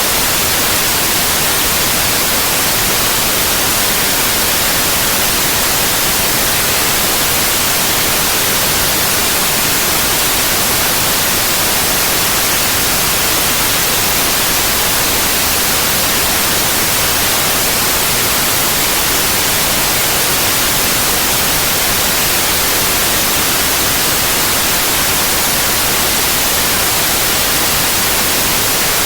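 Synthetic white noise: a loud, steady, even hiss across the whole frequency range, brightest in the treble, with no change or interruption.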